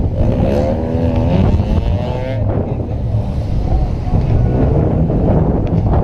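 Car engine and road rumble, with a higher pitched note climbing over the first two seconds or so.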